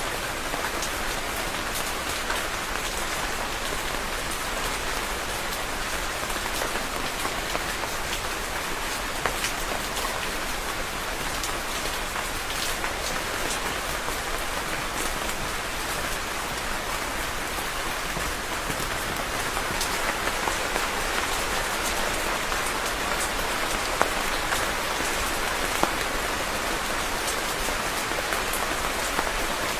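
Steady rain falling and pattering on a surface, an even hiss with many individual drop ticks, a few louder ones in the latter half.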